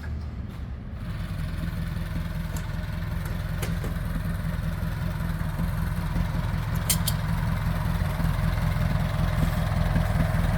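An engine idling steadily with a low, even firing rhythm, growing gradually louder. A couple of short sharp clicks sound over it.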